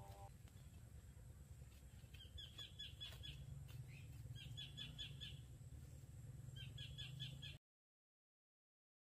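A bird calling in three short runs of rapid, high chirps, about two seconds apart, over a low steady outdoor rumble. The sound cuts off to total silence about a second and a half before the end.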